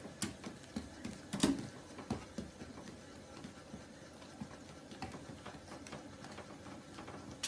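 Treadmill running with a low, steady mechanical hum. A few sharp clicks and taps sound over it, most in the first two seconds, likely from the puppy's paws on the belt.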